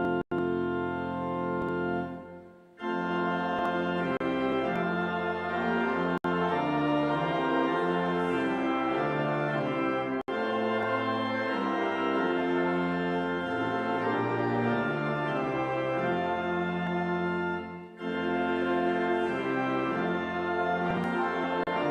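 Organ playing slow, sustained chords that change about every second, with a short break about two and a half seconds in and a brief dip near the end.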